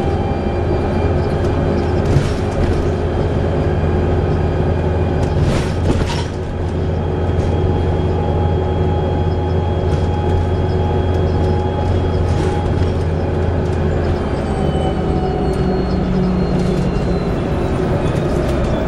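Volvo B7TL bus heard from on board: its diesel engine and Allison automatic driveline running under way with a low rumble and several steady whistling whines. In the last few seconds the rumble changes and the whines slide down in pitch. The whistling is the kind the uploader puts down to a bad differential.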